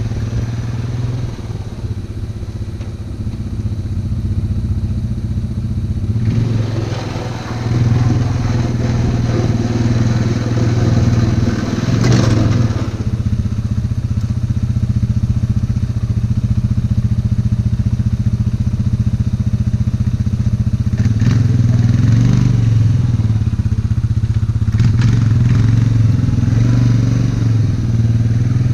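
ATV engine running steadily under load while plowing snow. It grows louder about seven seconds in, and a few brief, rougher noisy stretches come on top of it.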